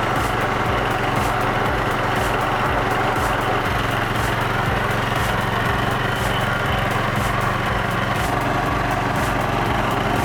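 Stump grinder's 13.5 hp Briggs & Stratton engine running steadily.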